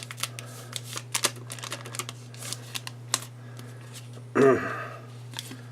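Baseball trading cards being handled and flipped through, making a run of light, irregular clicks and taps. About four and a half seconds in there is a brief vocal sound, and a steady low hum runs underneath.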